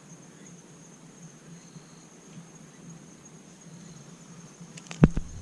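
Outdoor ambience: a faint, steady, high-pitched insect trill over background hiss, with a couple of sharp knocks near the end.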